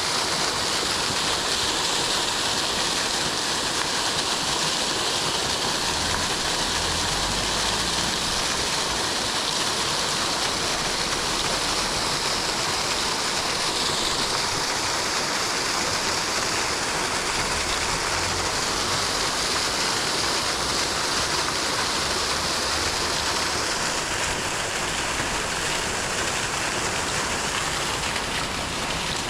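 Steady rush of flowing water from a stream running fast.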